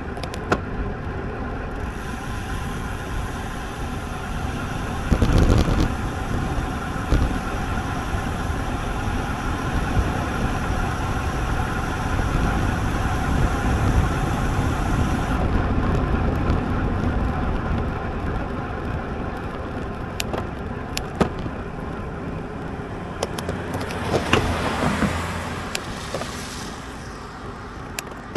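Steady rush of wind and road noise while riding a road bike, with a few sharp knocks about five seconds in and a louder swell near the end.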